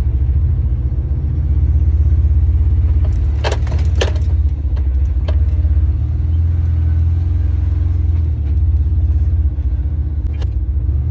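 Lorry's diesel engine idling steadily, with two or three sharp clicks or clatters about three and a half to four seconds in and a few fainter ticks later.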